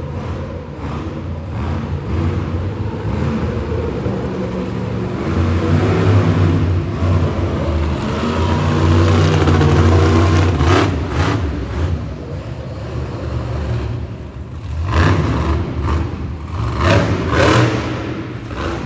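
Monster truck engine running hard under heavy throttle, swelling to its loudest midway, then revved in several short blips near the end.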